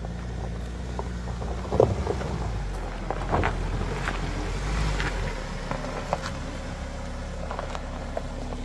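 Mahindra Thar 4x4's engine running steadily with a low hum on a steep dirt off-road climb, with scattered sharp clicks and knocks over it.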